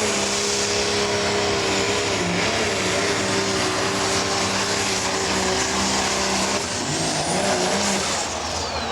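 Pro Stock pulling tractor's turbocharged diesel engine running hard under load down the track, with a steady engine note and a high whine. Near the end the whine rises briefly, then falls away as the engine comes off full power at the end of the pull.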